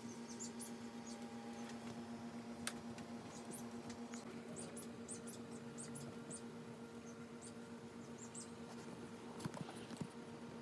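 Small birds chirping in short, high-pitched calls, scattered irregularly, over a steady low hum. A single click comes about a third of the way in.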